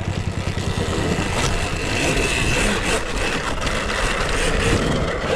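A motor vehicle engine running steadily, with a faint high steady whine above it from about two seconds in.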